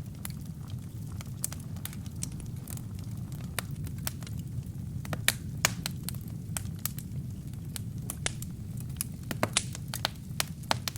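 Wood fire crackling: burning logs give off frequent sharp irregular pops and snaps, a few of them louder, over a steady low rumble of flame.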